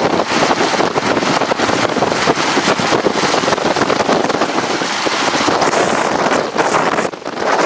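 Strong wind rushing and buffeting the microphone in gusts, dipping briefly near the end.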